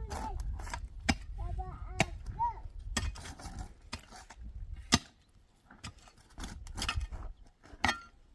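Irregular sharp knocks and clicks, a few of them louder, with a low rumble under the first part and a brief voice about two seconds in.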